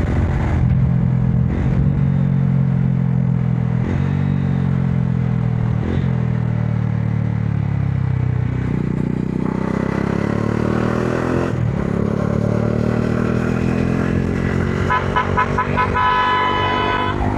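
Modenas Dominar 400's single-cylinder engine pulling through the gears, with a brief dip at each shift about every two seconds, then revving up again from about halfway. Near the end a high tone sounds in quick pulses, then is held for about a second.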